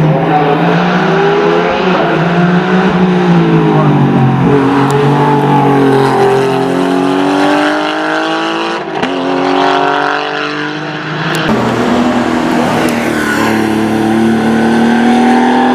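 Porsche race car engine at full throttle on a hillclimb. Its pitch climbs through each gear and drops back at the shifts, with a sharp break about nine seconds in.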